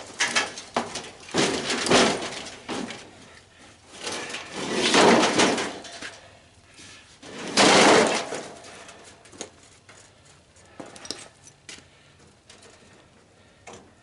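Tanning bed parts being shifted and handled: three bouts of scraping and rattling, each a second or so long, with scattered clicks and knocks between them.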